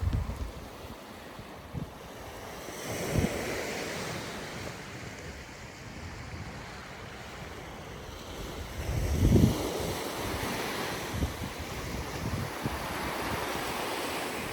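Sea waves washing onto the shore, two bigger waves swelling in about three and nine seconds in. Wind gusts buffet the microphone.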